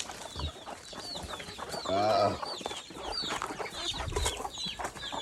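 Chicks peeping over and over in short, high, falling notes, with a hen's lower clucking call about two seconds in.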